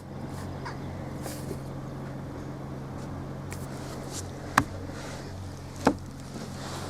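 Steady low hum of a motor vehicle, with two sharp clicks, one about four and a half seconds in and another a second and a half later.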